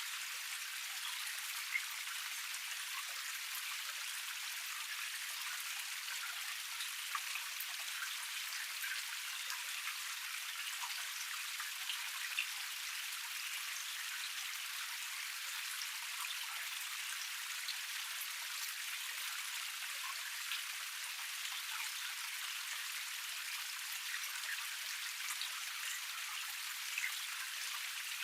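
Small forest cascade splashing and trickling steadily, with fine droplet patter and scattered small splashes over an even rush of water.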